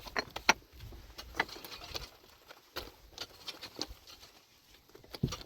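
Irregular light clicks and taps, a dozen or so spread unevenly, with a louder pair of taps near the start.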